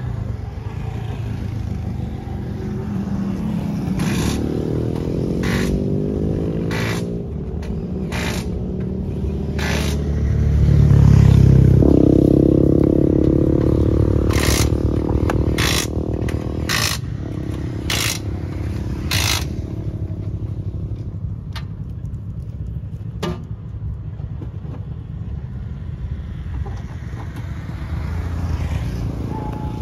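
Rally car engine running at a standstill, its pitch wandering and rising to a louder surge about eleven seconds in. About ten sharp cracks come roughly a second apart through the middle stretch.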